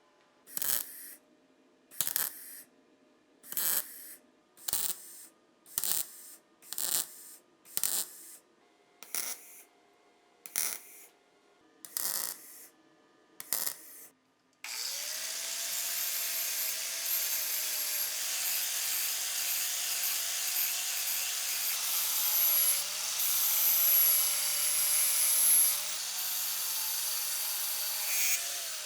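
About a dozen rasping hand-tool strokes, roughly one a second, like sawing or filing. About halfway through, a power tool starts and runs steadily with a wavering whine.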